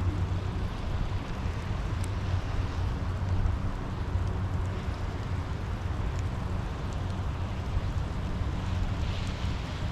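Steady rain with a constant low rumble underneath and a few faint scattered drop ticks.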